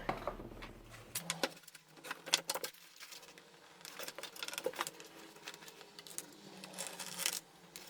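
Scattered light clicks and scrapes from a wooden shroud piece being handled and marked out, at uneven intervals.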